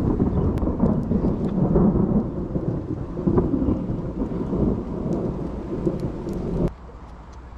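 A long, heavy rumble of thunder, with rain falling. The rumble cuts off abruptly near the end.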